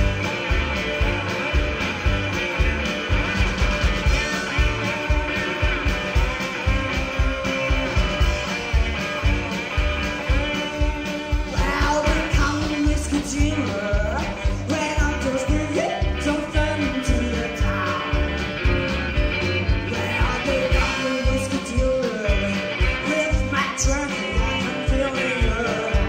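Rock music with a steady driving drum beat and guitar; a singing voice comes in over it about halfway through.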